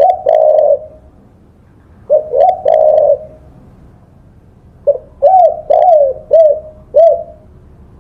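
Spotted dove cooing in three phrases of low coos, the last a run of about six short, bending notes.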